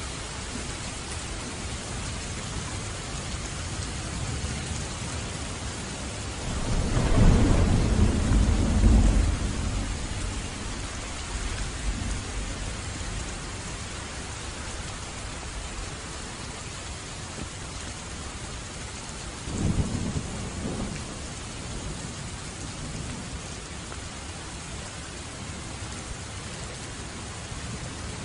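Steady heavy rain with thunder: a loud rumbling peal about seven seconds in that fades over a few seconds, and a shorter, lighter rumble a little past the middle.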